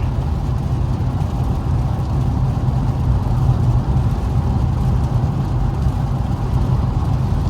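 Steady low drone of engine and road noise inside the cabin of an Infiniti Q50S driving on a wet road.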